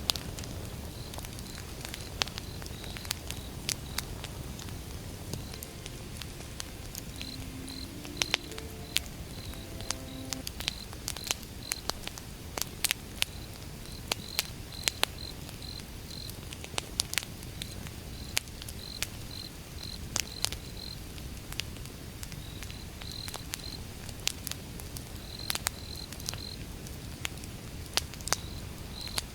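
Wood fire burning, with irregular sharp crackles and pops over a steady low rumble of flames. Crickets chirp in short repeated pulses behind it.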